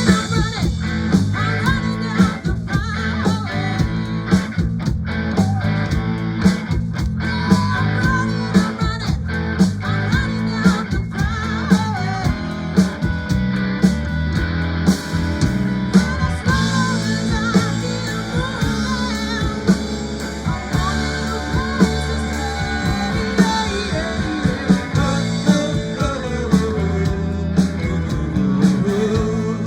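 Rock band playing an instrumental passage of the song: electric guitar lines over bass and drums with a steady beat.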